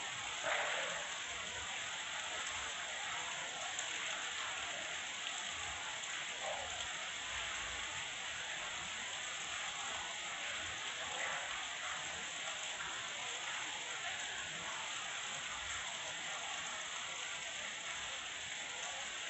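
Heavy rain falling steadily, an even hiss of drops on surfaces, briefly a little louder about half a second in.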